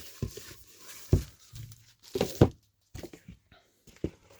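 Cardboard board-game components being handled on a tabletop: several short knocks and thuds, the loudest a little over a second in and again around two seconds in, with faint rustling between them.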